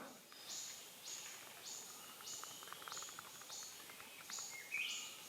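Tropical forest insects calling: a high buzzing pulse repeating about every half second, with a second, lower chirping call joining near the end.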